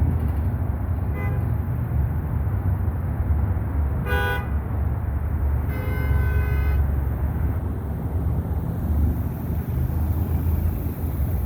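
Car horns honking in congested traffic: a faint short toot about a second in, a sharp short honk about four seconds in, and a longer honk of about a second soon after, over the steady low rumble of traffic. The honking comes from impatient drivers.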